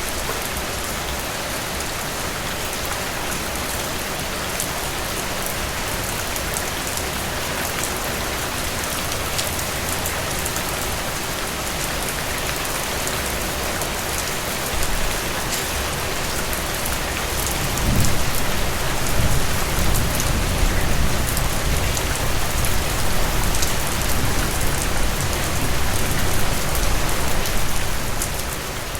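Steady rain falling through forest trees, an even hiss with fine crackles of individual drops. About eighteen seconds in, a low rumble joins it and runs on under the rain to near the end.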